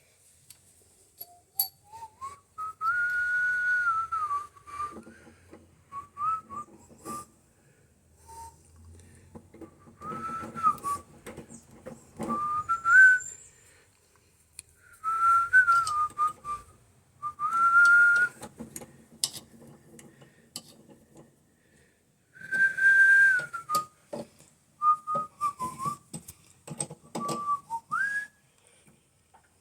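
A person whistling a tune in short phrases of held and gliding notes, with scattered clicks and knocks in between.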